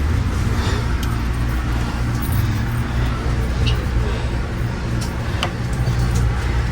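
Steady low rumble inside an Amtrak coach car, with a few faint clicks.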